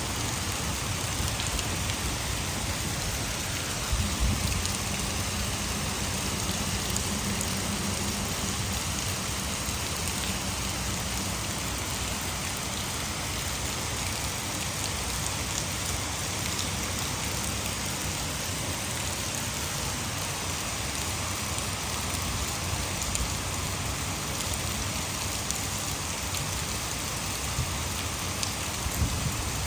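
Heavy rain falling steadily, an even hiss with fine drop ticks. A brief low thump comes about four seconds in and again near the end.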